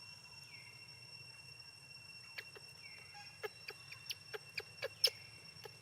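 A series of short, sharp animal chirps or squeaks, coming more often and louder through the second half, over a faint steady high-pitched whine.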